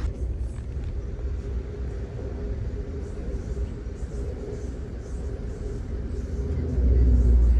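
Low, steady rumble of a moving passenger train heard from aboard, with a louder low-pitched surge in the last second.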